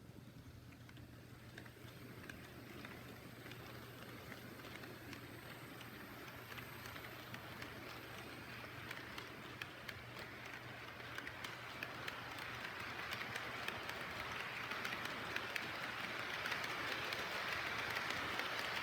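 HO-scale model freight train, two TOMIX EF64-1000 electric locomotives pulling KATO tank wagons, running on the track with a steady rolling hiss and many small clicks, growing steadily louder as it comes closer.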